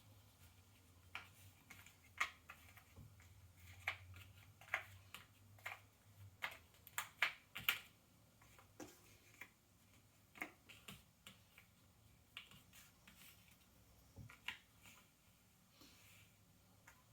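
Cardboard jigsaw puzzle pieces being handled and set down on a table: faint, irregular small clicks and taps, coming most thickly about halfway through.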